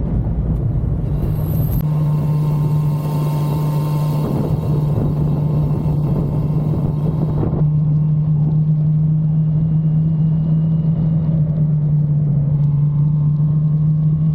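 1985 Suzuki GSX-R750F's air/oil-cooled inline-four engine running at steady revs while the bike is ridden, with road and wind noise. The engine note holds one steady pitch, and the background noise shifts abruptly about two seconds in and again about halfway through.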